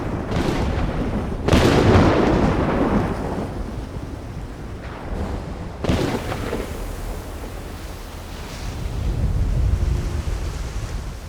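Thunder: a loud crack about a second and a half in that rolls away over a couple of seconds, a second sharp clap about six seconds in, and a low rumble building near the end.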